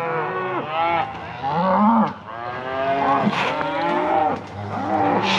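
A herd of cattle mooing and bawling, with several overlapping calls one after another.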